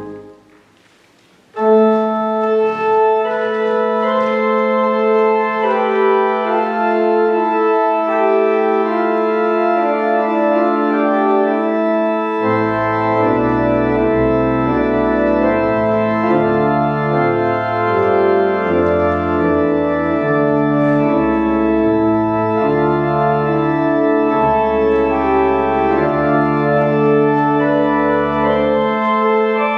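Organ playing the closing postlude. A chord cuts off right at the start and there is a pause of about a second; then a new passage begins over a long held note, with deep pedal bass notes coming in about halfway through.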